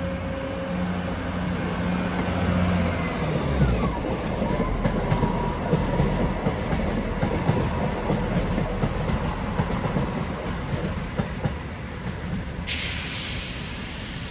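Passenger train passing close and running away over pointwork. A steady low hum gives way to a tone that slides down, then wheels clatter rapidly over rail joints and points for several seconds.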